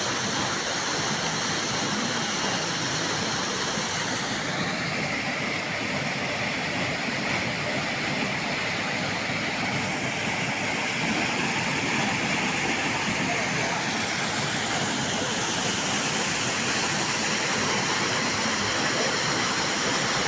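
Water pouring down a waterfall, a steady rushing noise.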